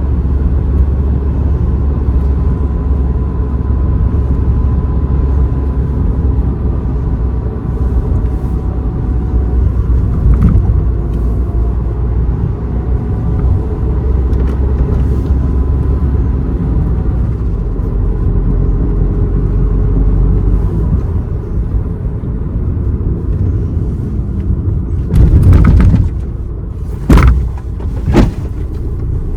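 A car driving, with a steady low rumble of engine and road noise. Near the end come a few loud, sudden thumps.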